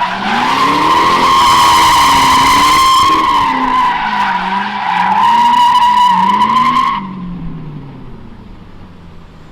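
Pontiac GTO's LS1 V8 revving up and down in waves while the rear tyres squeal steadily in a donut. About seven seconds in the tyre squeal stops suddenly and the engine drops to a lower, quieter note.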